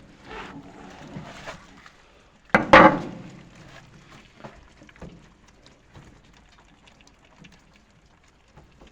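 Faint, irregular clicking and crackling of nutria eating, with a brief loud clatter about two and a half seconds in.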